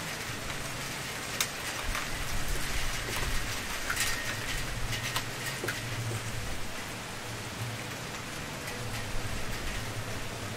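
Wood fire crackling steadily, with sharp pops from the burning wood, the loudest about four seconds in, over a low steady hum.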